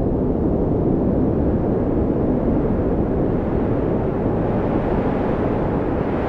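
Steady wind blowing: an even, low rushing sound with no gusts or breaks.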